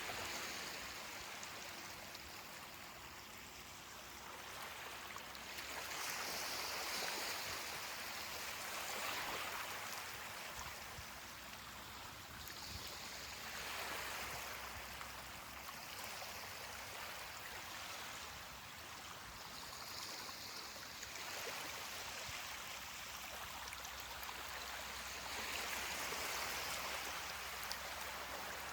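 Ocean waves washing onto a beach: a hiss of surf that swells and fades every few seconds as each wave comes in and draws back.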